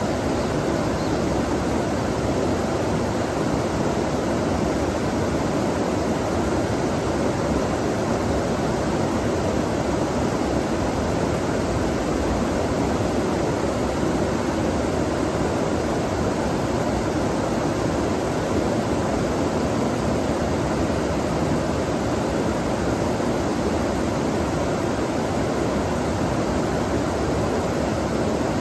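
Flowing water running steadily: an even, unbroken rush of a stream.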